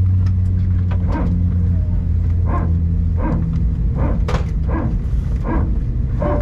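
Airbus A321 cabin noise: a steady low drone that drops off about three seconds in, with brief bursts of indistinct passenger voices.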